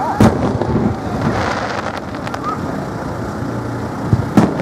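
Aerial firework shells bursting: a sharp bang just after the start and another near the end, with fine crackling between them.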